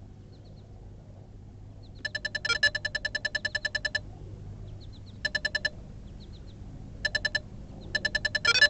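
Rapid electronic beeping: bursts of quick, evenly repeated tones lasting about a second or two each, starting about two seconds in, with faint short high chirps between them.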